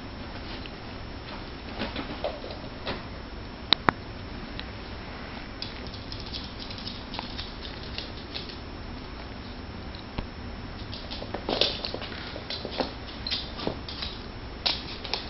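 Kitten and dog play-wrestling: scattered paw and claw scuffles and taps, with two sharp clicks about four seconds in and busier bouts of scuffling in the second half.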